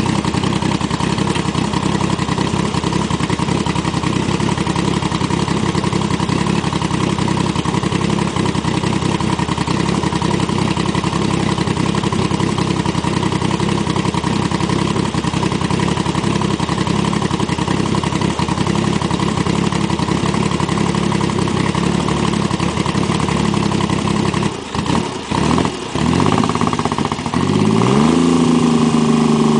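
1972 Triumph Trident's three-cylinder engine idling steadily. It falters briefly a few times, then rises in pitch near the end and holds a faster, louder idle.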